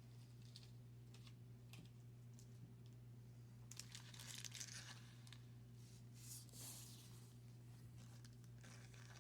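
Faint tearing and crinkling of a wax-paper baseball card pack wrapper being ripped open, in two stretches about four and six and a half seconds in, over a steady low hum.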